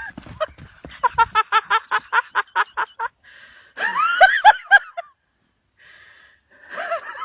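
A person laughing: a quick run of about five short bursts a second, then higher, gliding laughter.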